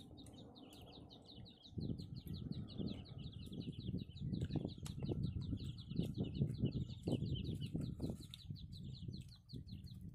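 A bird chirping fast and evenly, about nine chirps a second, goes on until shortly before the end. From about two seconds in it has loud, irregular close-up chewing and handling noises over it as duck meat is dipped in sauce and eaten.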